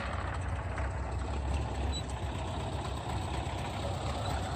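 Tractor engine idling steadily with a low rumble.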